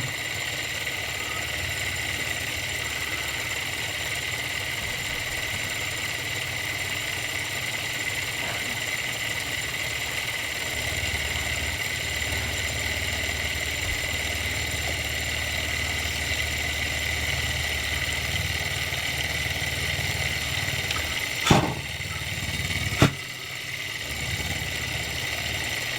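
Model Stirling engine with a small generator running steadily under its flame, a constant mechanical hum. Two sharp knocks come about a second and a half apart near the end.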